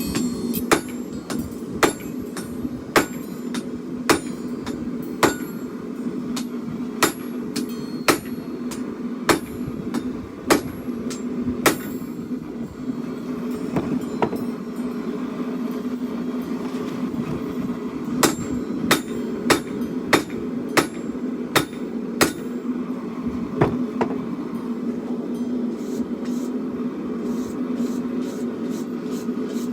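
Hammer blows forging a 1076 carbon-steel blade, sharp ringing strikes about one a second, then a pause and a quicker run of blows before they thin out. A steady hum runs beneath.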